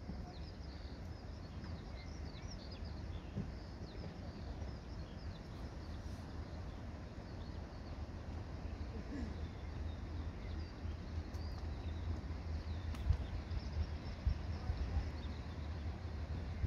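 Birds singing in the background, many short high chirps in quick succession, over a steady low rumble.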